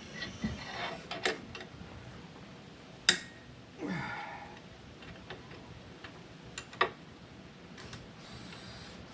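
Wrench work on a tractor's backhoe mounting-plate bolts: a few sharp metal clinks, the loudest about three seconds in and near seven seconds, with a short scraping sound around four seconds.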